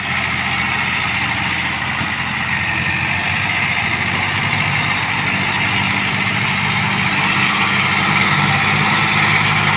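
Tractor diesel engine running steadily under a strong hiss, with no change in pace.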